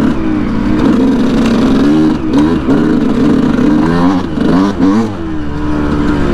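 2019 Yamaha YZ125 two-stroke dirt bike engine with an FMF Turbinecore 2 aftermarket exhaust, running under way on the trail. It holds a steady note at first, then the revs rise and fall several times in the middle with the throttle and gear changes before settling again.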